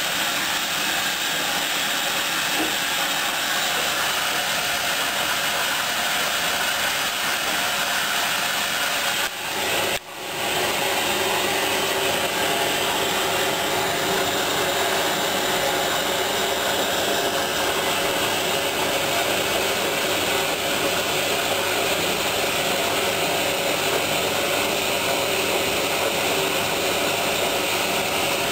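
Hoover DYN 10124DP front-loading washing machine running its last rinse with fabric softener: a steady rushing noise with a faint hum, which dips briefly about ten seconds in.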